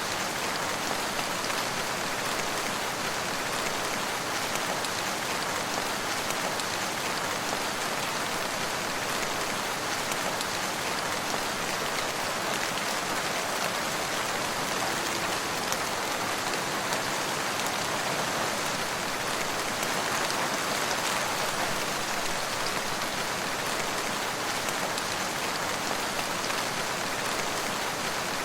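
Steady rain falling, a constant dense patter of raindrops on a surface, with no pauses or changes.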